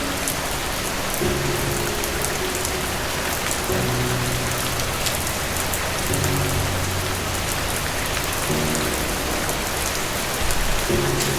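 Steady rain with dense pattering drops, over soft low music notes that come in about every two and a half seconds.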